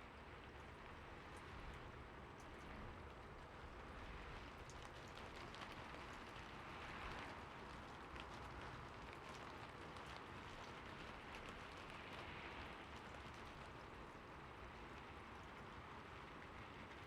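Heavy rain falling steadily, individual drops ticking sharply through a constant hiss.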